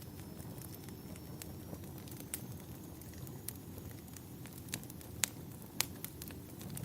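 Campfire burning: a steady low rumble of the flames with scattered sharp crackles and pops from the burning wood, two louder pops late on.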